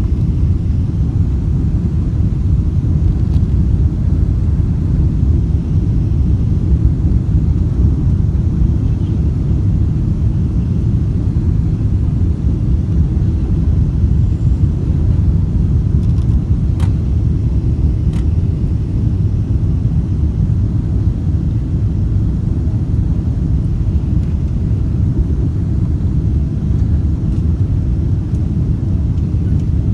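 Steady low rumble inside the cabin of a Boeing 777-200ER airliner, with two faint clicks a little past halfway.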